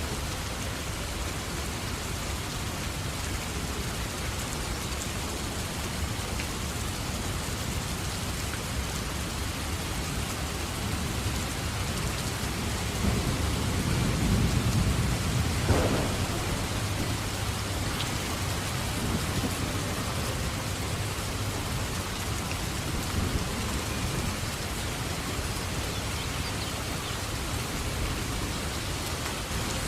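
Steady heavy rain falling, with a low thunder rumble building about halfway through and ending in a sharper crack of thunder.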